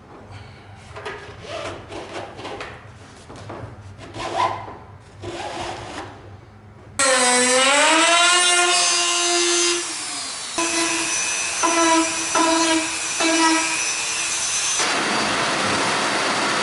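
Knocking and rubbing of handled parts, then a power drill starting abruptly about halfway in, its pitch dipping and recovering as it loads up, followed by several short trigger bursts and a steady loud rushing noise near the end, consistent with drilling through the kayak's plastic strap holder into the seat.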